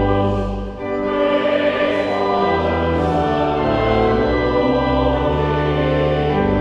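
Choral singing with organ accompaniment: sustained chords over deep bass notes, with the hiss of sung consonants now and then.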